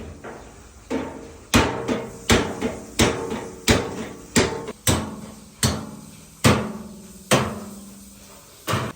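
Hammer blows on steel, a dozen or so unevenly spaced strikes, each with a short metallic ring.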